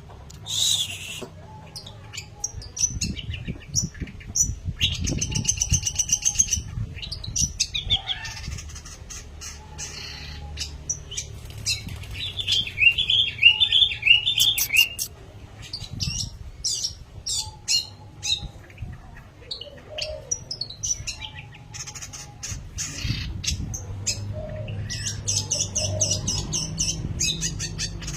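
Long-tailed shrike singing vigorously: a varied, chattering song of sharp clicks and quick high notes, with a dense fast run of notes about halfway through.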